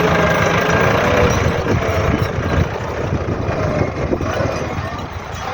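Tractor engine running steadily, easing slightly in loudness partway through.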